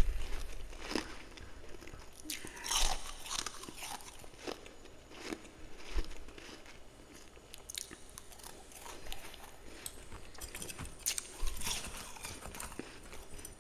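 A person biting and chewing a mouthful of freezer frost close to the microphone, giving irregular crisp crunches, with louder bursts of crunching about three seconds in and again near the end.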